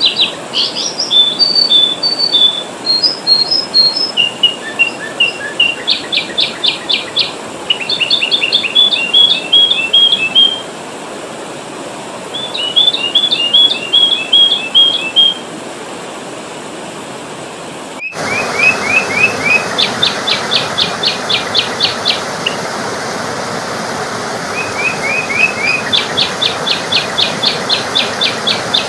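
Sooty-headed bulbul calls used as a lure recording: short whistled notes and phrases alternating with fast rattling trills, repeated in bursts. About two-thirds of the way in the recording cuts abruptly to another take with a louder steady hiss behind the calls.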